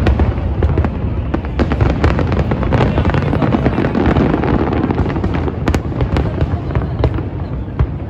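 Fireworks going off in rapid succession: many sharp crackling pops over a continuous low booming rumble.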